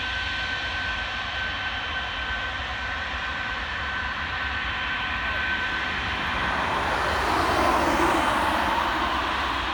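Jet airliner's engines with a steady high whine, joined by a broad engine noise that swells and is loudest about eight seconds in as the aircraft passes closest, then eases off.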